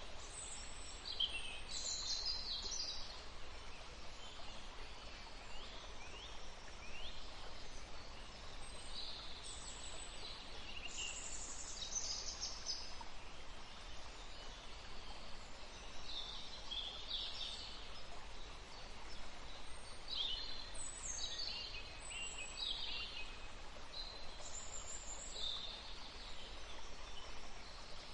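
Several songbirds singing and calling in a forest: clusters of short high chirps and quick descending trills, repeated every few seconds over a steady soft background hiss.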